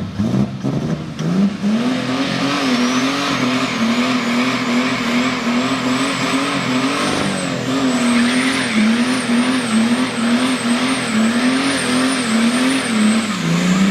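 Mercedes-Benz OM606 straight-six diesel engine running hard, its note rising and falling over and over as the throttle is worked, with a thin high whistle wavering along with it.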